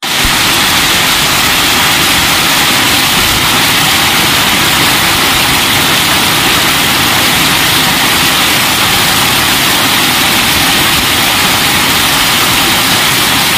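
Heavy rain mixed with hail pouring down in a storm, a loud, steady rushing hiss.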